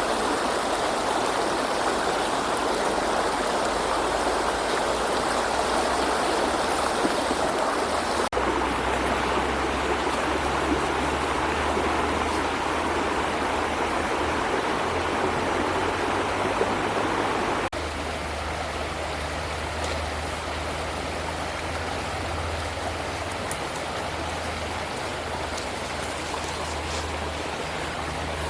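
Steady rushing noise of running water over a low hum. It drops slightly in level about two-thirds of the way through.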